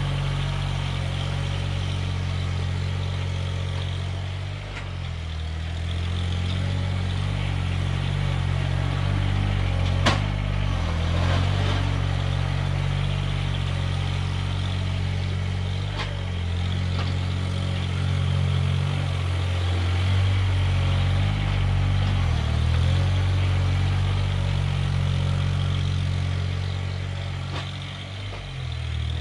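Engine of a snow-clearing machine running steadily, its note dipping briefly a few times, with one sharp click about ten seconds in.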